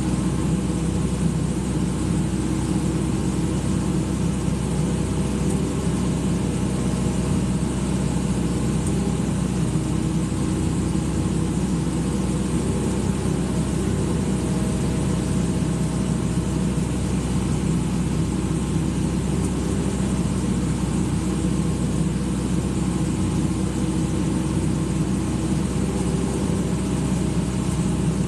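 Excavator's diesel engine running steadily at an even speed, with no change in pitch or level.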